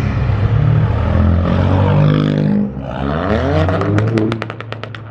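Car engine running loud and being revved, its pitch climbing for a second or so past the middle. Near the end the level drops and a rapid series of sharp cracks follows.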